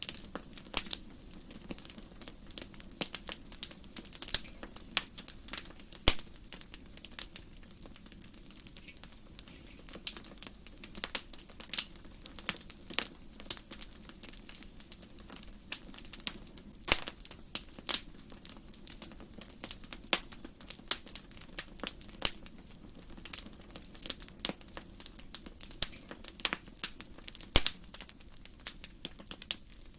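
Wood fire burning in a fireplace: irregular sharp crackles and pops over a steady low hiss.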